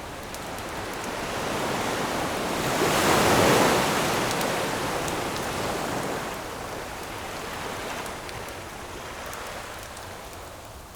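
Ocean wave breaking on the shore, a rushing swell that builds to a peak about three and a half seconds in and then slowly washes back, with faint crackles of a campfire over it.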